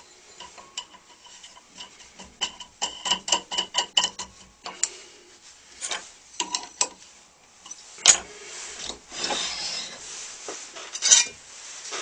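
Metal parts of a saw-blade sharpening machine being handled while the grinding wheel is mounted: a run of quick ticking clicks, then scattered knocks and rubbing, with two loud clacks near the end.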